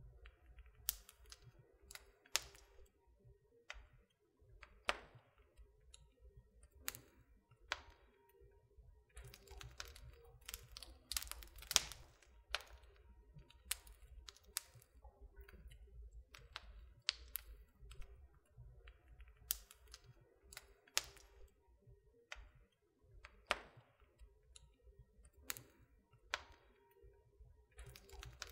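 Wood fire crackling in a fireplace: irregular sharp pops and snaps, sometimes several close together, over a faint low rumble.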